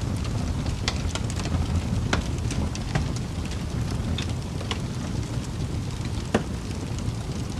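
Wood fire crackling in a fireplace: a steady low rumble of the burning with scattered sharp pops and snaps, the strongest pop about six seconds in.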